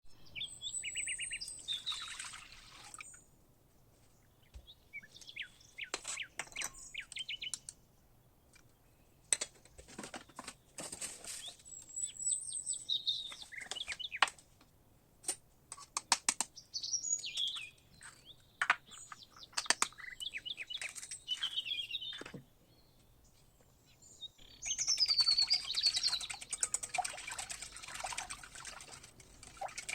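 Small birds chirping and singing in short, high, gliding calls, with scattered sharp clicks and taps in between, and a busier stretch of chirping near the end.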